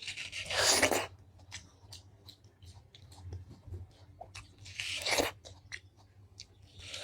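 Watermelon being bitten and chewed: two longer, juicy bites, about half a second in and about five seconds in, between soft wet chewing clicks.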